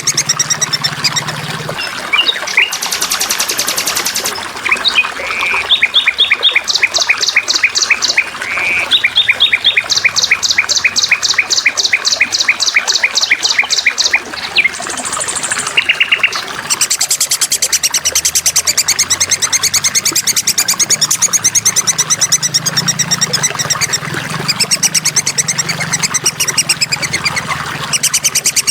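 Small songbirds chirping over a steady trickle of water. There are runs of rapid repeated chirps, about four a second, then from about halfway a long continuous high warbling trill.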